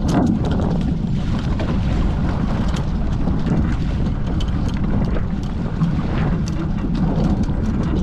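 Wind buffeting the microphone over water rushing past a Hobie 14 catamaran's hulls under sail, steady and loud, with scattered brief sharp ticks.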